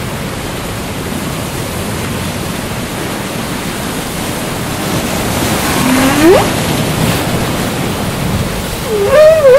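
Whale song over a steady ocean hiss: a low moan rising in pitch about six seconds in, then a wavering, warbling call near the end.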